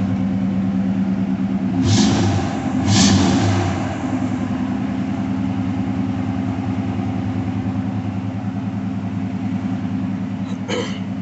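1989 Chevrolet Caprice Brougham's engine idling steadily, revved twice briefly about two and three seconds in, then settling back to idle.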